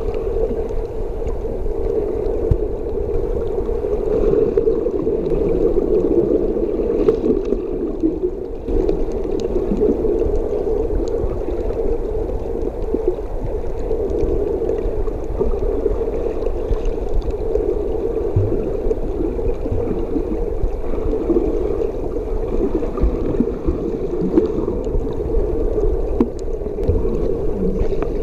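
Muffled underwater sound picked up through a camera's waterproof housing: a steady, dull rush of water with gurgling.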